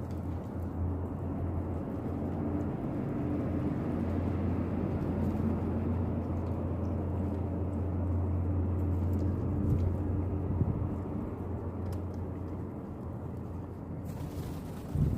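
Low, steady engine drone from a passing motor vehicle that swells over several seconds and fades away, followed by one sharp loud knock near the end.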